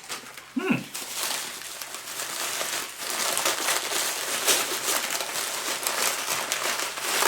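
Candy packaging crinkling and rustling as it is handled, a dense run of small crackles that grows louder after the first second.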